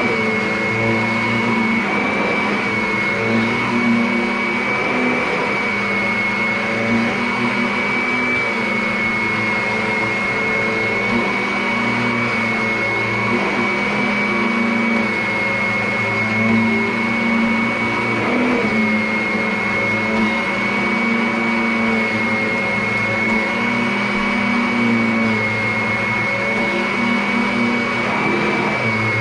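Vacuum cleaner running steadily, with a constant high-pitched whine over its motor hum.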